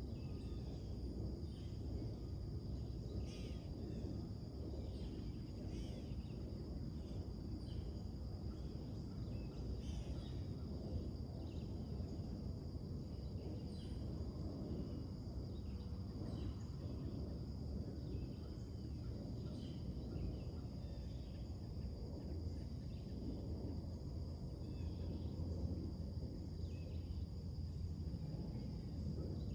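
Birds chirping in short, scattered calls over a steady low rumble of distant background noise, with a constant high-pitched insect trill underneath.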